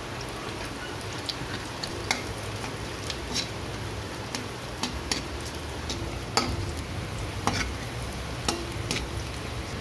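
Chopped onion and garlic sizzling in hot oil in a metal wok, stirred with a metal ladle that clinks and scrapes against the pan every second or so.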